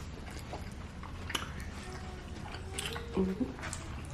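Close-miked chewing and wet mouth clicks of people eating a burrito bowl. About halfway through, a faint high-pitched voice, a child whining, sounds in the background.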